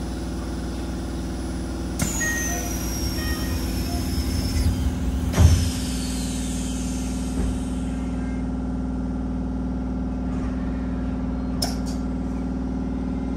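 Inside a Keisei commuter train car standing at a station: the steady hum of the car's onboard equipment, broken twice by sudden sounds with a falling high whistle, the second ending in a loud thump, and a short click near the end.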